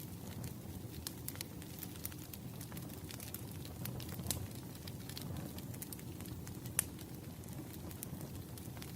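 Firewood burning: a steady low rumble of flames with frequent small sharp crackles and pops, one louder pop about two-thirds of the way through.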